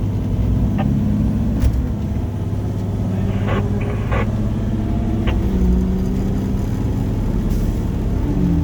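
A large fire truck's engine is working hard as the truck accelerates from a standing start, giving a deep, steady rumble.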